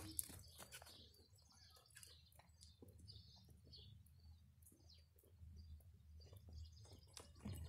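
Faint birds chirping, with scattered soft clicks and a low steady rumble underneath.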